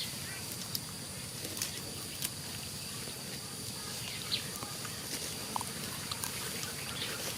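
Outdoor ambience: a steady hiss with scattered faint clicks and a few brief chirps.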